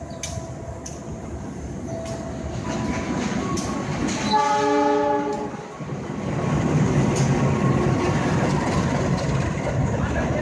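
CC206 diesel-electric locomotive hauling a container freight train as it approaches and passes. Its running noise builds, it gives one steady horn blast about four seconds in lasting about a second and a half, then the engine and wagons rumble loudly as it goes by.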